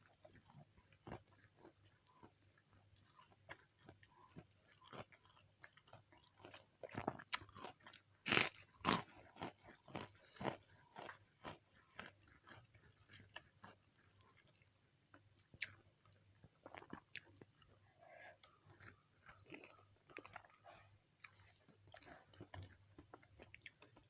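A person chewing and biting food close to the microphone: wet mouth clicks throughout, with a run of loud crunchy bites about seven to eleven seconds in. The food is a fried-chicken meal with raw cucumber and cabbage.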